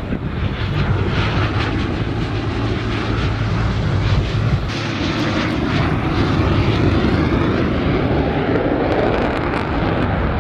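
Airplane engine noise from an aircraft flying past: a loud, steady roar whose pitch climbs through the second half and eases off near the end.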